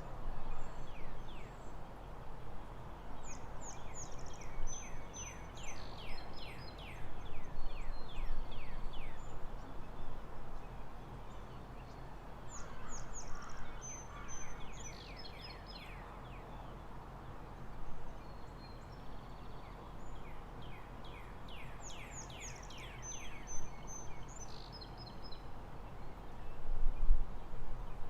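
Steady outdoor background noise with a songbird singing the same phrase of quick descending notes and short high whistles three times, about every nine seconds.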